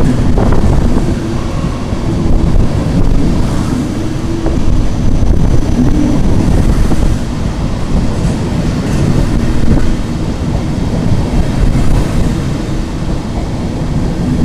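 A train running on rails: a steady, heavy low rumble with a faint hum held above it.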